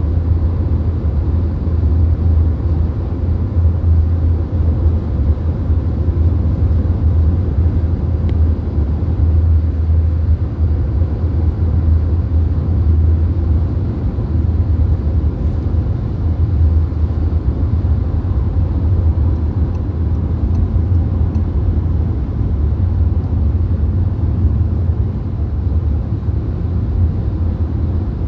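Steady low road rumble inside a VW Golf cruising at motorway speed: tyre and engine drone with wind noise, heard from the cabin.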